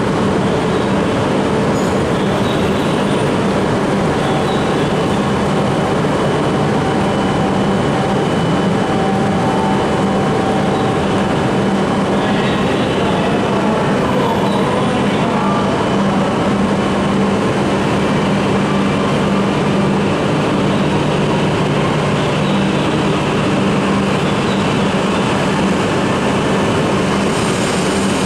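E5 series Shinkansen train pulling slowly out of a station platform: a steady electric hum with a few held tones, gathering speed near the end.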